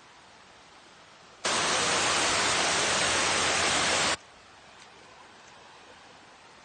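Waterfall rushing: a faint steady hiss of falling water, with a much louder stretch of about three seconds of full rushing noise that starts and stops abruptly, a little over a second in.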